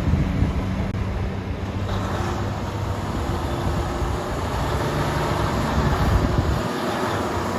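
Heavy truck's diesel engine running, a steady low engine rumble with road and wind noise.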